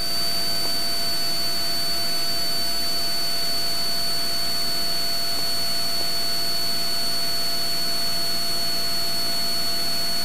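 Cessna 182 Skylane cockpit noise in flight: the steady drone of the engine and propeller with airflow. A constant high-pitched whine runs through it.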